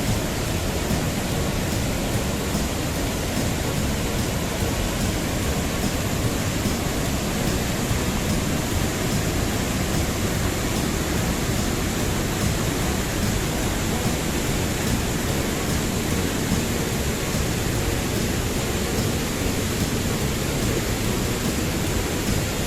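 Irik waterfall, a mountain waterfall in heavy, powerful flow: a loud, steady rush of falling water.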